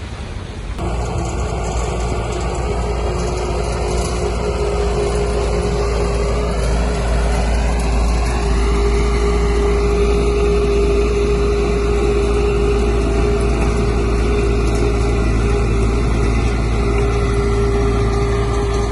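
A heavy diesel engine of an earthmoving machine runs steadily, with a whine that climbs in pitch about six seconds in and then holds.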